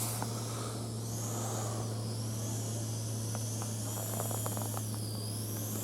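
Steady low hum of an idling engine, with a thin wavering whine above it and a few faint clicks about three to four seconds in.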